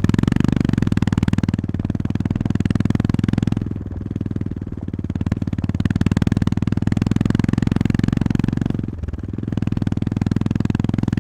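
Honda GB350S air-cooled single-cylinder engine and exhaust running under way, a rapid even thumping pulse. Its level dips briefly about four seconds in and again near nine seconds as the throttle eases, then picks back up.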